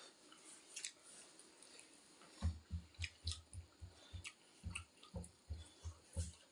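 Close-up chewing of ramen noodles, wet and squishy. A few sharp mouth clicks come first, then from about two seconds in a steady chewing rhythm of about four chews a second.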